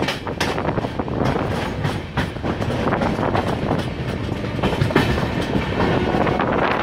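Express passenger train running at speed, heard close up from the coach doorway: a steady rumble of wheels on the rails with repeated clattering clicks.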